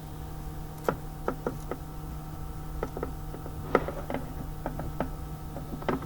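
Hand tools clicking and knocking against metal parts, about a dozen irregular sharp clicks, over a steady low hum.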